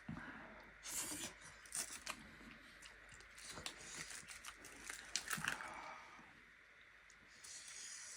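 A person eating chicken curry with rice close to the microphone: irregular chewing with mouth clicks and a few louder crackling bites, going quieter for about a second near the end.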